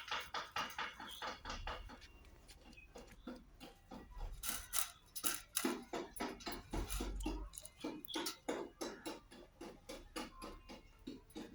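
A parrot eating: quick, uneven clicks and taps of its beak picking at and cracking food.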